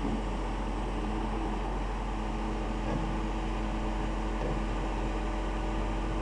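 An engine running steadily at a constant speed, a low even drone with a background hiss.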